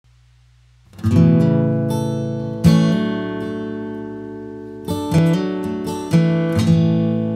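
Background music: acoustic guitar strumming chords that ring and fade between strums, starting about a second in.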